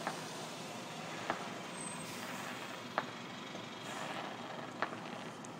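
Fireworks bursting at a distance: four sharp bangs a second and a half or so apart, over a steady background hiss.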